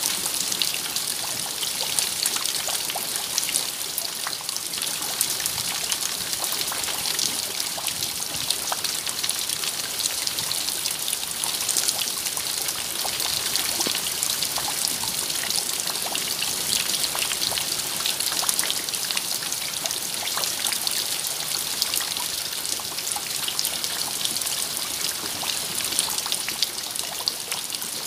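Steady rain, a continuous hiss of falling water with many small, sharp drop ticks scattered through it.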